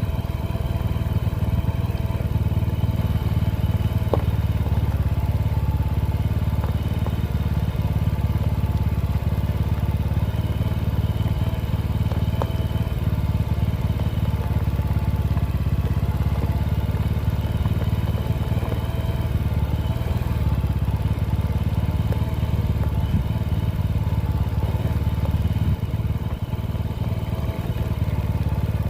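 Motorcycle engine running steadily while riding, a constant low rumble with no change in pace.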